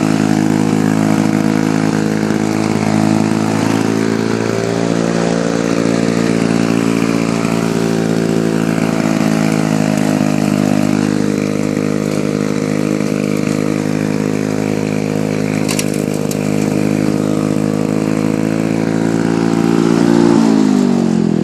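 Lawn-Boy 4502 mower's two-stroke F-Series engine running loudly at steady speed through a muffler with a hole in it, its pitch dipping slightly a couple of times. Near the end the engine is shut off and winds down, the pitch falling.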